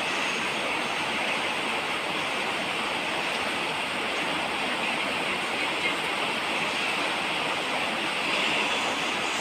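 Steady rain falling, an even hiss with no distinct drops standing out and one small tap about six seconds in.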